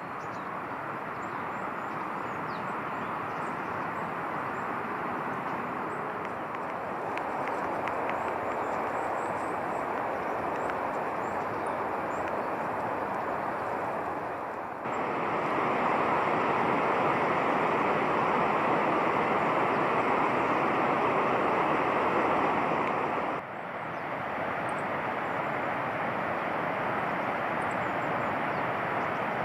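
A steady rushing noise with faint, short high chirps over it. The noise steps louder about halfway through and drops back about eight seconds later.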